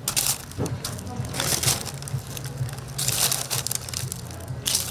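Crispy crust of a Korean whole fried chicken crunching and crackling as it is broken apart, in about four short bursts roughly a second and a half apart.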